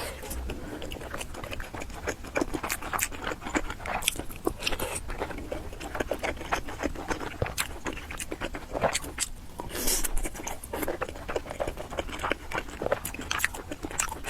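Close-miked eating sounds: a person chewing and biting food, with many small irregular clicks.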